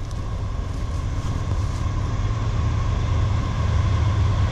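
Approaching Norfolk Southern freight train led by a GE AC44C6M diesel locomotive running at full throttle: a steady low rumble that slowly grows louder, with a steady high ringing tone above it.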